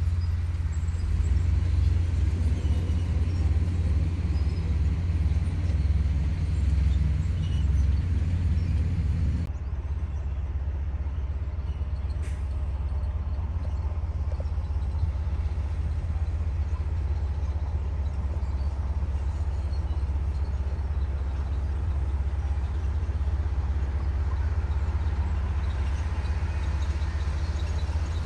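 Komatsu D58E bulldozer's diesel engine running as a steady, heavy low rumble while the dozer works. About a third of the way in the sound drops abruptly to a somewhat quieter, lower rumble.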